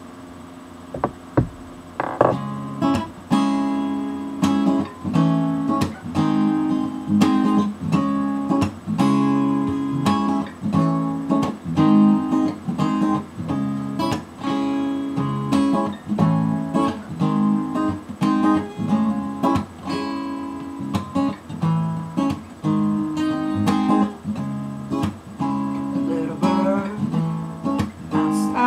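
Solo acoustic guitar playing the instrumental intro of a song, strummed chords that change every second or so. It starts about two seconds in, after a couple of sharp knocks.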